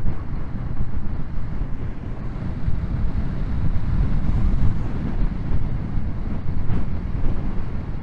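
Wind buffeting a motorcycle rider's microphone at road speed: a steady low rush.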